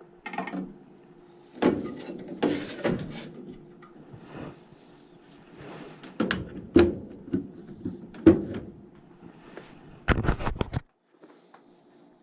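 Irregular knocks, clicks and rustles of hands handling tools and furnace parts, over a faint steady low hum; a louder burst of handling noise about ten seconds in stops abruptly.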